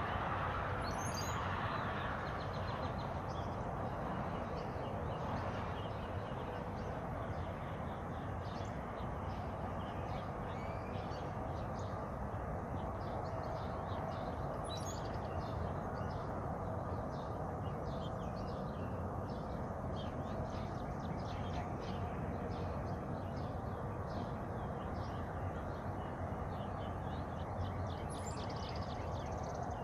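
Small birds chirping repeatedly, with a few brief high upward-sweeping calls, over a steady rushing background noise.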